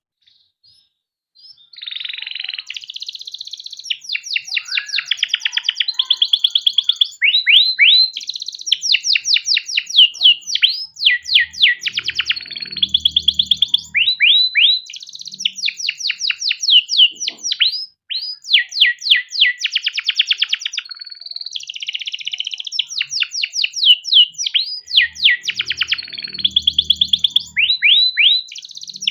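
Male canary singing a long rolling song of fast high trills and quick rising sweeps. The song starts about a second and a half in and breaks off briefly about two-thirds of the way through.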